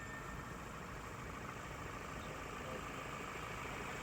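Ford Endeavour's 2.0-litre turbo-diesel engine running steadily at low revs.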